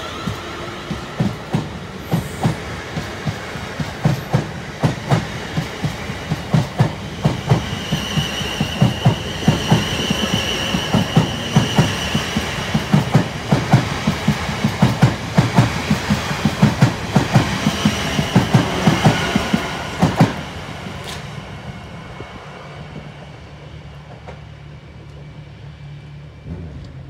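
South Western Railway electric multiple unit passing close by, its wheels clicking steadily over rail joints, with a high whine in the middle of the pass. The clicking stops suddenly at about twenty seconds in as the last car goes by, leaving a faint low hum.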